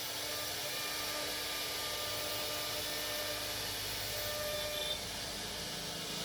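CNC router spindle running steadily while cutting, a continuous hiss with a steady hum and whine and no break.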